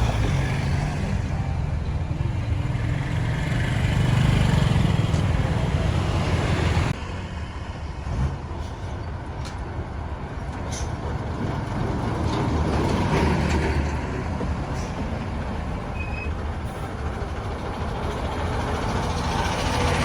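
Busy road traffic: steady engine rumble and tyre noise from passing vehicles. The low rumble is heavy for the first seven seconds or so, then drops off suddenly and the traffic continues more quietly.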